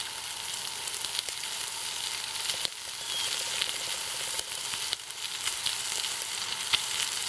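Spam sizzling steadily as it fries over an alcohol stove, with scattered small pops and crackles.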